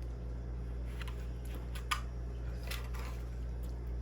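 Faint eating sounds, a few short spoon clicks and mouth noises from someone eating soup, with one sharper click about two seconds in, over a steady low hum.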